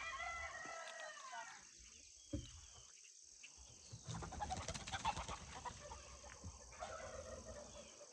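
A bird, sounding like a chicken, calls with several bending tones in the first second and a half, and again faintly near the end. In between, corn plants rustle and crackle briefly, about four to five seconds in.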